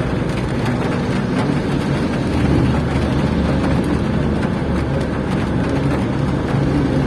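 Steady low rumble of a car's engine heard from inside the cabin, with a continuous hiss over it.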